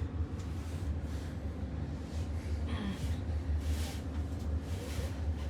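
Steady low rumble inside the cabin of a Blue Bird electric school bus, with a faint voice about three seconds in.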